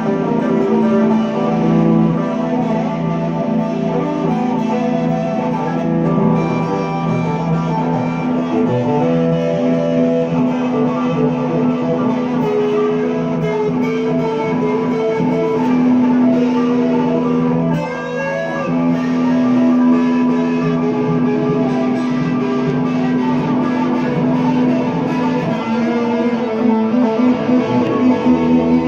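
Guitar playing an improvised blues, with sustained notes and occasional bent, sliding notes.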